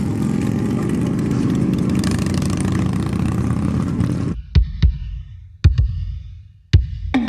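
A car engine running at a car meet. About four seconds in it cuts off abruptly, and a few spaced, heavy bass-drum hits follow as music begins.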